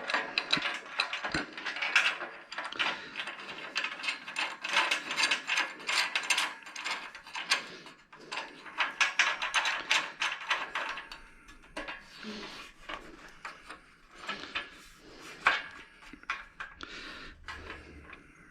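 Hand ratchet clicking in rapid runs as bolts are run into T-nuts on the router table frame, with a short break about eight seconds in, then slower scattered clicks and knocks toward the end.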